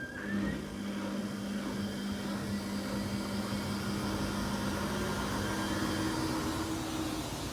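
Samsung washing machine on its high-speed spin at about 1000 RPM, the drum running with a steady whir and a steady whine that steps up to a higher pitch near the end. The noise comes with a badly unbalanced load, and the owner suspects worn drum bearings in the 14-year-old machine.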